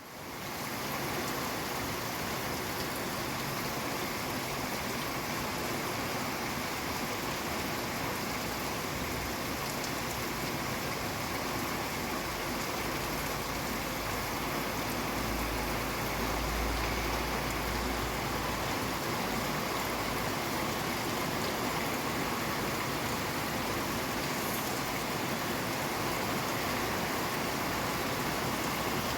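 Steady rainfall, fading in over the first second, with a low rumble swelling for a few seconds about halfway through.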